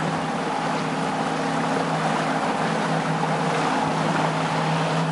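Boat motor running steadily underway, with wind and water noise.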